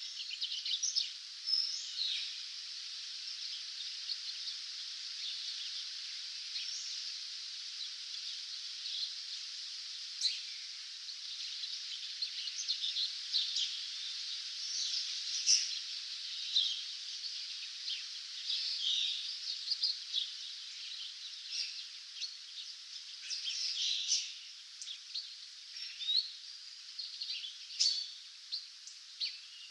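Dawn chorus of songbirds: many short chirps, whistles and trills overlapping, over a steady high-pitched hiss.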